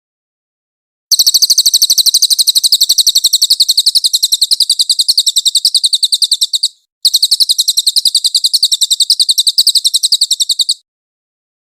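Cililin songbird singing in the fast 'nembak' style: a loud, rapid string of high, sharp notes, about eight a second. It breaks off briefly near the middle, then runs on until it stops about a second before the end.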